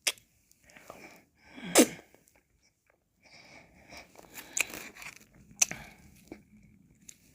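Close-miked mouth sounds of eating ice cream: licking, wet lip smacks and sharp clicks. There is one louder wet sound just under two seconds in.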